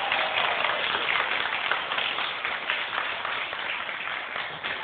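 Audience applause, many hands clapping at once, easing off slightly toward the end.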